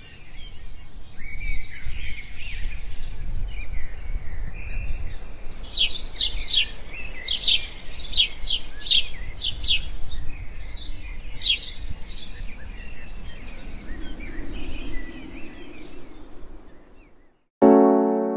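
Outdoor ambience: birds chirping over a low steady rumble, with a run of quick, bright, downward-sweeping calls in the middle. Electric piano music comes in near the end.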